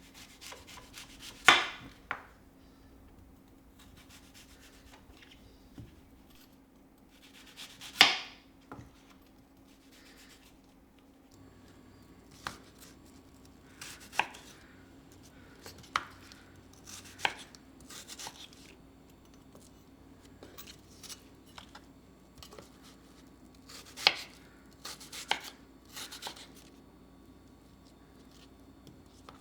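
Knife chopping on a cutting board: sharp, irregular knocks every second or two, with three louder strokes near the start, about eight seconds in, and later on, over a faint steady hum.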